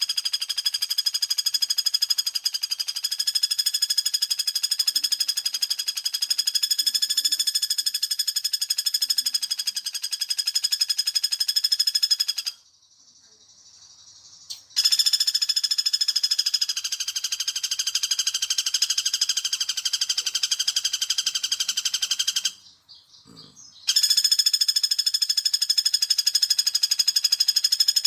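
Recorded call of the pelatuk bawang woodpecker played as a bird lure: a loud, rapid, high-pitched rattling trill held for long stretches, three runs with brief breaks in between, the first about twelve seconds long.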